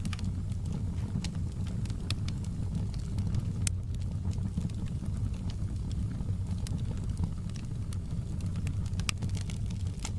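Fire crackling: sharp, irregular pops and snaps over a steady low rumble of burning flames.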